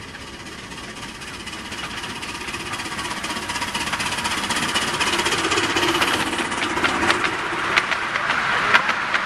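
Miniature railway train approaching, its sound growing steadily louder, with sharp clicks about once a second in the later part.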